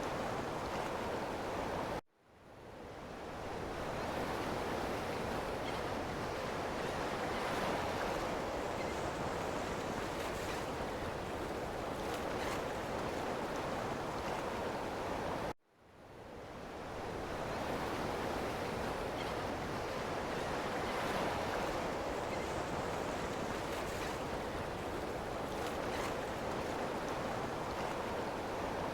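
Ocean waves washing in a steady, even surf hiss with no separate breakers standing out. The sound cuts out abruptly about two seconds in and again about halfway through, fading back up over a second or two each time.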